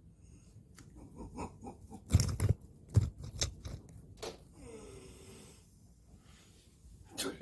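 A Jindo dog snorting and breathing, with a run of sharp clicking mouth noises in the middle and a short sound with a falling pitch about five seconds in.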